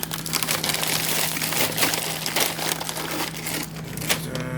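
Plastic-wrapped frozen food packages crinkling and rustling as they are handled and shifted about in a freezer, with many sharp crackles.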